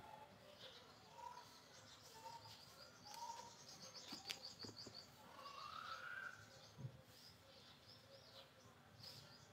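Faint birds chirping and calling, with a quick trill about halfway through and a rising whistle just after it; one light click about four seconds in.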